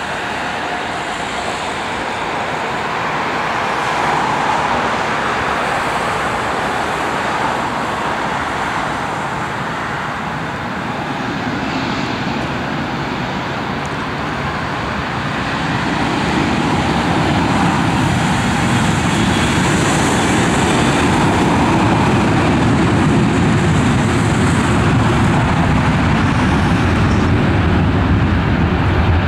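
Airbus A330-200 twin jet engines at takeoff power: a steady broad roar that grows louder, with a deeper rumble building from about halfway through.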